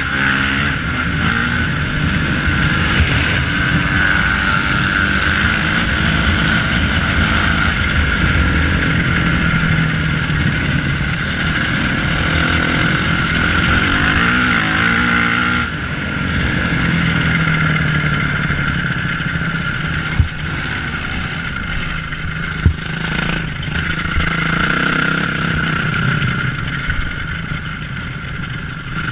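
Motocross motorcycle engines running hard, revving up and down as the bikes accelerate and shift. Two sharp knocks stand out about two-thirds of the way through.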